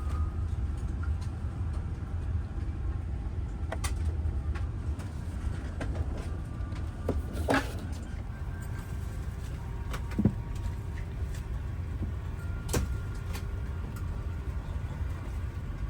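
Steady low hum of an Airbus A350-1000 cabin at the gate, its ventilation running, with a few sharp clicks and knocks about 4, 7.5, 10 and 13 seconds in.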